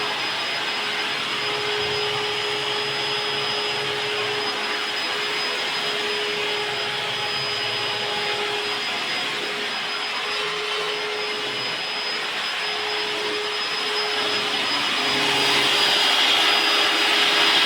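Electric diamond core drill running steadily as it cuts a four-inch hole through reinforced concrete, a continuous motor whine with a steady tone, growing louder near the end.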